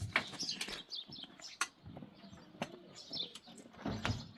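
Small birds chirping in short repeated calls, with several sharp clicks or knocks scattered through, the loudest about a second and a half in and again near the end.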